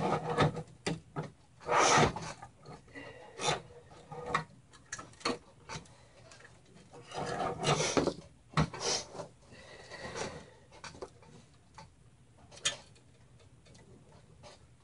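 Cables being handled and tied down inside a mini-ITX computer case: irregular rustles, scrapes and small clicks, with louder bursts about two seconds in and again around seven to eight seconds.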